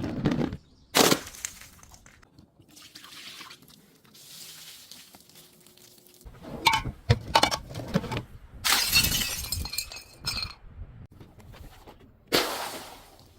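Glass bottles shattering and being crushed: a series of sharp crashes with tinkling and crunching of shards between them, and a longer stretch of crunching about two-thirds of the way through.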